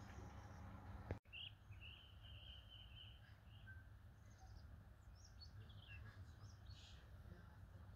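Near-silent outdoor ambience with faint birdsong: a short warbling call, then a few scattered chirps over a low background hum.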